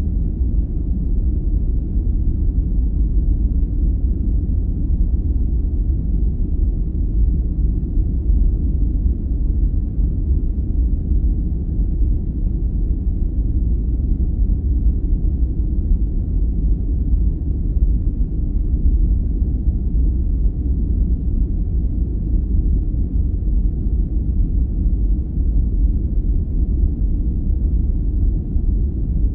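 A steady, unchanging deep noise, mostly bass with the highs rolled off: a sleep-aid noise track of the kind sold as white noise.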